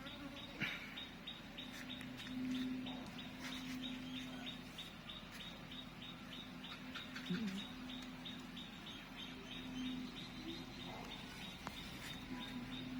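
Honeybees buzzing as they fly around flowers gathering nectar, a low hum that swells and fades as bees pass close. Behind it, a steady run of short high chirps, several a second.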